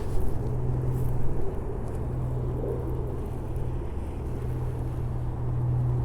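Steady low rumble of city traffic, with a constant low drone under it.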